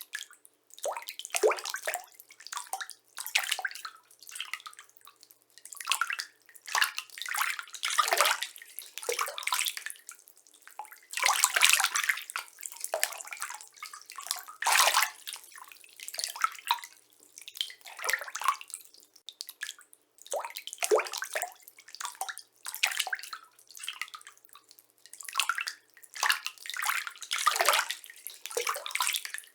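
Water splashing softly in a series of irregular splashes, one every second or so with short gaps between.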